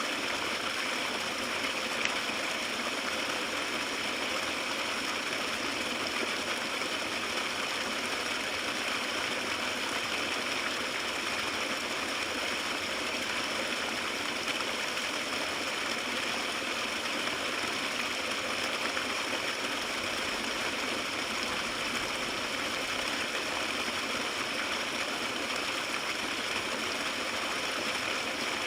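Small stream of water flowing and gurgling over rocks and through grass, a steady rush heard close up.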